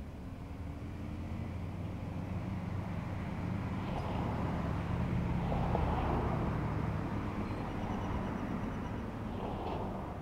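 A road vehicle passing by: a low engine hum with tyre and road noise that builds to a peak about six seconds in, then fades away.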